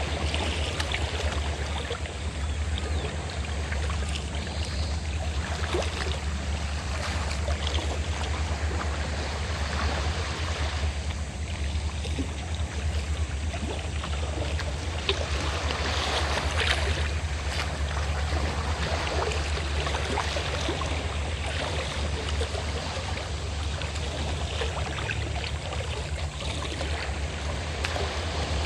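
Sea waves washing on the shore, swelling and easing every few seconds, over the steady low drone of a fishing boat's engine.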